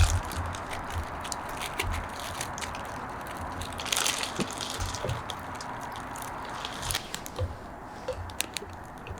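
Wood bonfire crackling: irregular sharp pops and snaps over a steady hiss, with a few soft low thumps.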